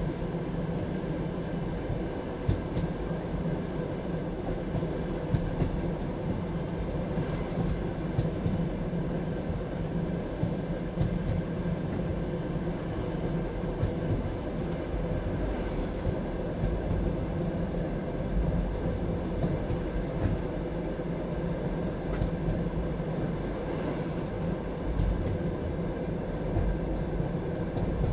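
Passenger train carriage running steadily along the track: a continuous rumble of wheels on rails, with occasional sharp knocks.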